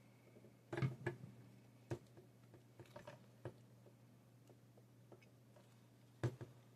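A few scattered small clicks and taps from handling graphics card parts, with short gaps between them, over a faint steady hum.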